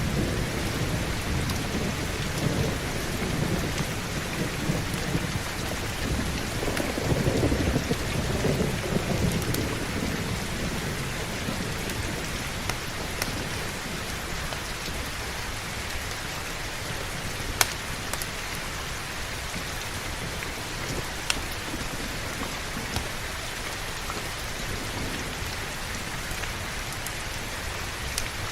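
Steady heavy rain with rolling thunder rumbling through the first third, dying away about ten seconds in. A few sharp pops from a crackling wood fire stand out later over the rain.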